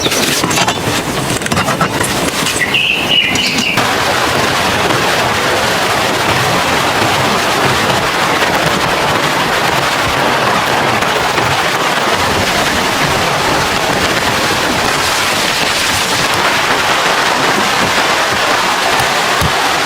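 Heavy rain falling steadily, a dense even hiss, with a few sharp taps in the first few seconds.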